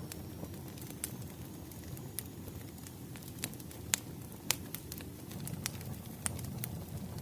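Wood fire crackling: a steady low rumble of burning logs with irregular sharp pops and snaps, the loudest two close together about four seconds in.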